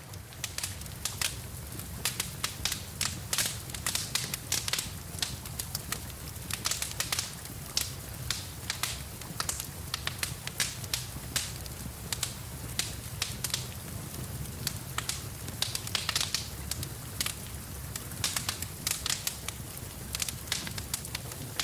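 Wood fire crackling in a fireplace, a dense run of sharp pops and snaps over a steady low rumble.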